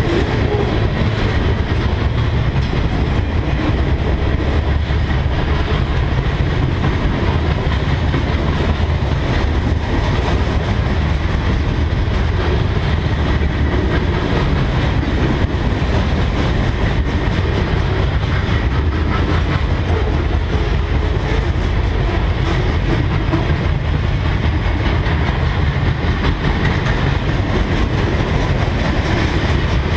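Freight train cars rolling past: a steady, continuous rumble and rattle of steel wheels on the rails and the cars' running gear.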